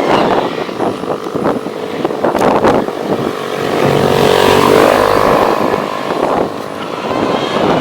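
Toy excavator's small electric motor whirring amid rattling and clicking of its plastic parts; the whirr swells and is loudest about four to five seconds in.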